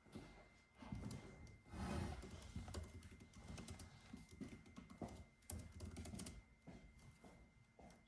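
Soft typing on a computer keyboard: irregular runs of quiet key clicks with short pauses between them.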